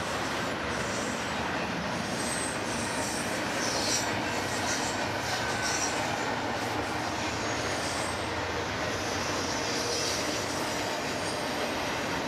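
Freight train cars rolling past on the rails: a steady rumble, with brief high wheel squeals now and then.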